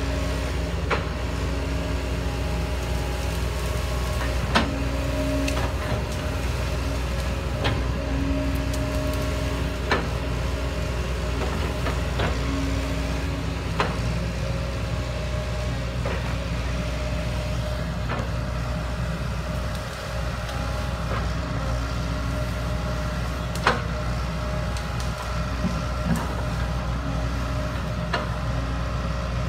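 Heavy diesel machinery running steadily, with sharp knocks every few seconds and short steady whines coming and going over the engine drone.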